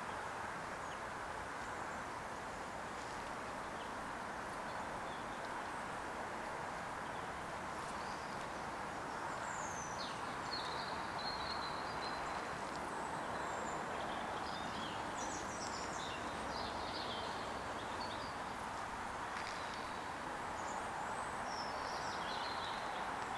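Steady outdoor background noise, with small birds chirping high and brief, scattered through the second half.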